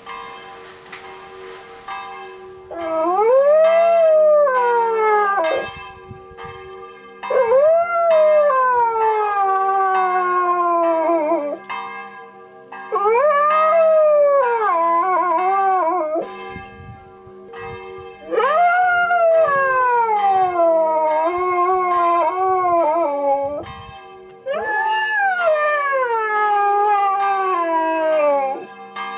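A dog howling along with ringing church bells: five long howls, each rising and then sliding slowly down in pitch, over the bells' steady ringing tones.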